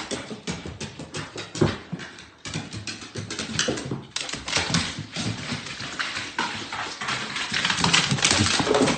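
A dog's claws and paws clicking and thumping on stairs as it goes down, in many quick, irregular steps.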